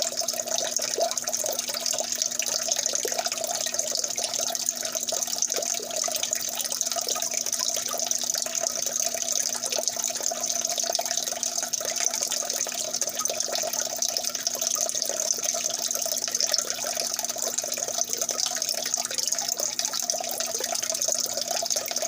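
Water running steadily, a continuous trickling splash.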